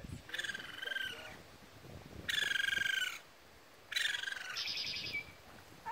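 Baby raccoons calling: three high, buzzy trilling calls, each about a second long, with short gaps between them.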